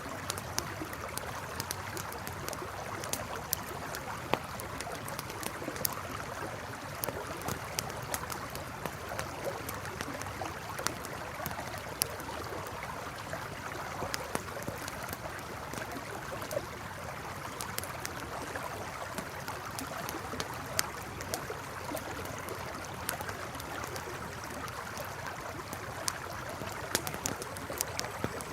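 A campfire crackling, with frequent sharp, irregular pops, over the steady rush of a flowing river.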